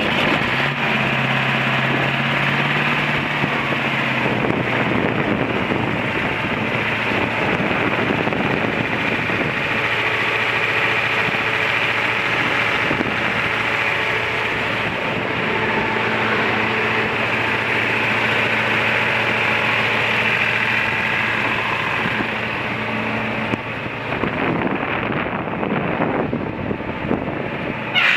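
International 4586 four-wheel-drive tractor's diesel engine running steadily at idle, with wind on the microphone.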